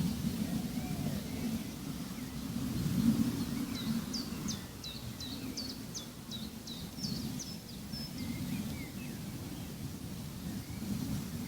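A bird sings a quick series of about ten short, high, down-sweeping notes, with fainter chirps before and after. Under it runs a steady low rumble of outdoor ambience that rises and falls gently.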